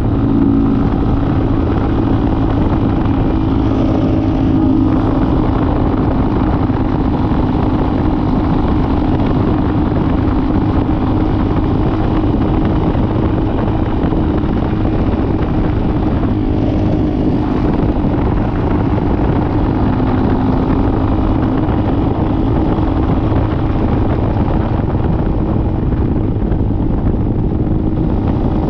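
Dirt bike engine running steadily, held at a nearly constant pitch as the bike cruises, with no big revs or gear changes standing out.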